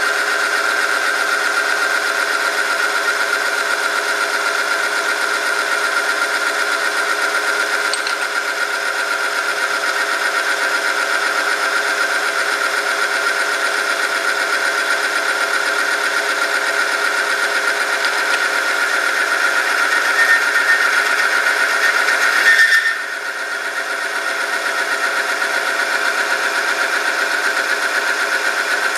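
Oil-film friction test machine running: an electric motor turns a steel shaft rubbing against a metal test sample lubricated with diesel 5W40 engine oil, giving a steady, high-pitched mechanical whine under load. The whine swells slightly, breaks briefly about three-quarters of the way through, then resumes and cuts off abruptly at the end.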